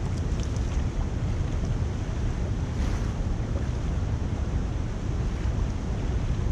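Steady rushing of water at a debris-clogged culvert, mixed with wind buffeting the microphone.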